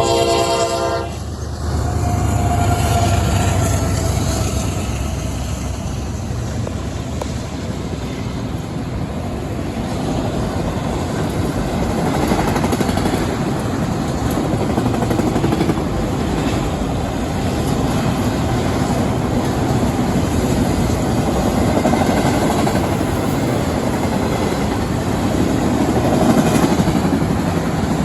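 A CSX freight train's horn sounds and stops about a second in. The train then rolls past with a steady rumble and the noise of steel wheels on rail as the auto rack cars go by.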